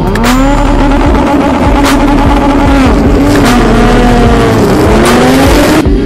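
Ducati Panigale V4 race bike's V4 engine running hard at high revs, its pitch rising and falling, with a few short sharp breaks in the sound and a sudden drop in revs near the end.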